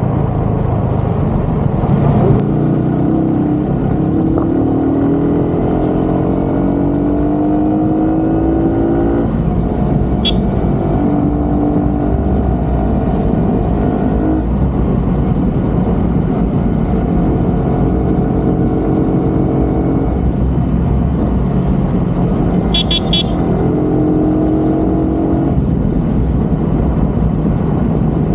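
Road vehicle's engine running while driving, over a steady rumble of road noise, its pitch rising as it speeds up about four seconds in. Short high beeps sound about ten seconds in, then a quick run of them near the end.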